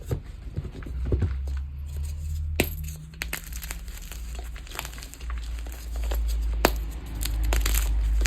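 Gym chalk being crushed and crumbled by hand: scattered crunchy crackles with a couple of sharp cracks, over a low handling rumble.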